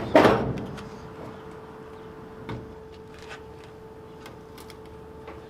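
A single sharp thump, then a faint steady hum with a few light ticks.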